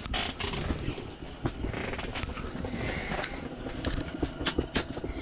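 Low rumbling wind noise on the microphone, with many short, sharp clicks and knocks scattered through it.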